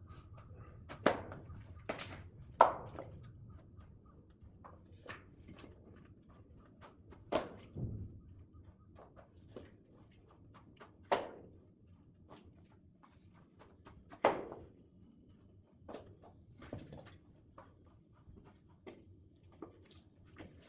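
Split oak firewood being handled and stacked: irregular wooden knocks as logs are set down against one another, a few louder ones standing out among smaller clicks.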